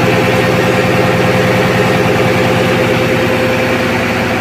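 Diesel machinery running in a ship's engine room: a loud, steady drone with a constant whine over it.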